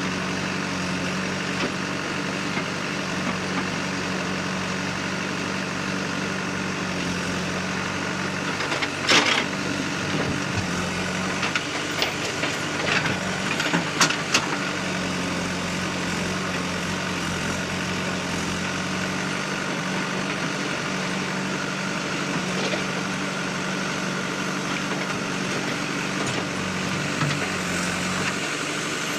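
Heavy diesel engine running steadily, with a few sharp knocks and clanks around the middle.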